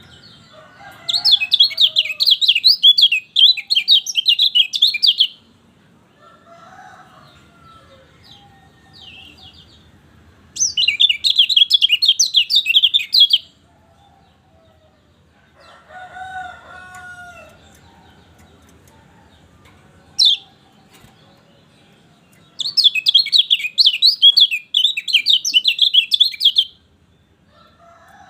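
Kecial kuning, a Lombok white-eye, singing in three bursts of rapid, high twittering song, each a few seconds long. Softer, lower calls sound in the gaps between bursts.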